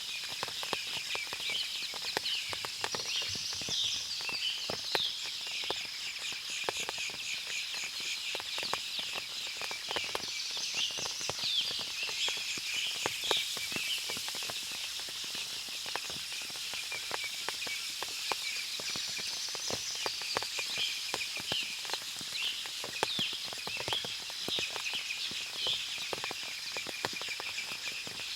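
Forest ambience after rain: many small, irregular drips falling through the trees, with birds chirping on and off over a steady, high insect chorus.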